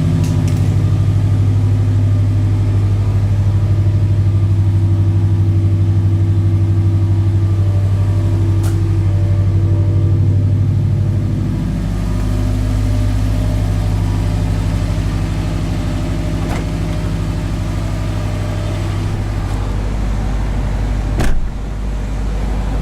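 2008 Subaru WRX's 2.5-litre turbocharged flat-four (EJ255) with its muffler deleted, running at cold-start fast idle with a steady exhaust note; the idle settles a little lower about halfway through. A single sharp click sounds a couple of seconds before the end.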